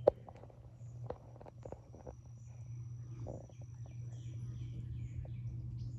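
Outdoor insect and bird ambience: a steady low hum under a thin, high, steady insect trill, with short bird chirps midway. A sharp click sounds right at the start and a couple of softer knocks follow, like handling or footsteps.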